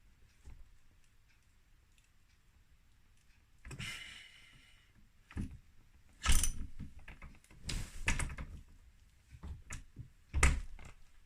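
Hand tools working the clutch nut loose on a two-stroke dirt bike engine. A short ringing metal scrape comes first, then a run of sharp metallic knocks and clanks, the loudest a little past halfway and near the end.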